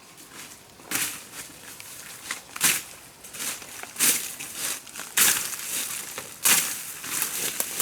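Repeated crunching and crackling of plant material, a sharp burst every second or so with rustling between.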